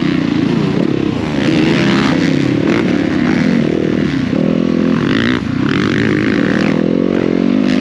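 Motocross bike engine revving up and down as the throttle is opened and closed while riding.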